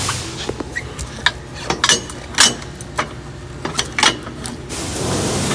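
A string of sharp clanks and knocks, about a dozen in four seconds, some ringing briefly, as equipment is worked into place under the car.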